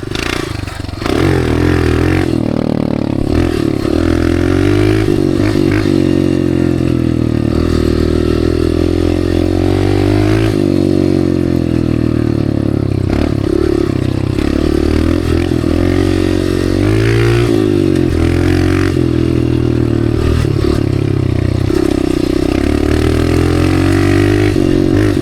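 Dirt bike engine and exhaust running under throttle while riding through sand, its pitch rising and falling as the throttle opens and closes. It gets louder about a second in and stays loud.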